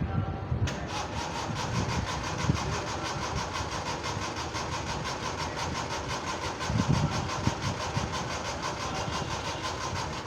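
Suzuki Mehran's three-cylinder carburettor engine being cranked on the starter with a low battery, in a long unbroken crank of rapid, even pulses that begins suddenly just under a second in and cuts off abruptly at the end, without the engine catching. Occasional low thumps sound underneath.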